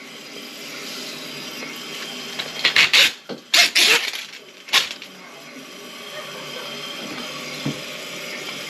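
Steady hiss of water running, typical of a toilet tank refilling, with a few sharp clattering knocks of a tool being handled about three to five seconds in.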